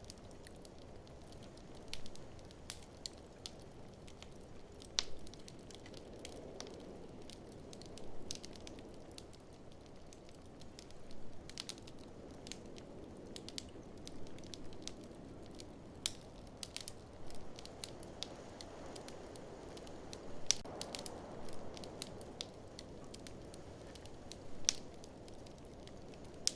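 Wood fire in an open fireplace crackling, with irregular sharp pops and snaps, over a steady low rush of blizzard wind that swells a couple of times.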